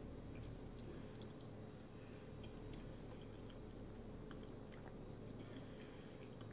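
Faint chewing of a mouthful of cheese lasagna: soft, wet mouth sounds with scattered small clicks, over a low steady hum.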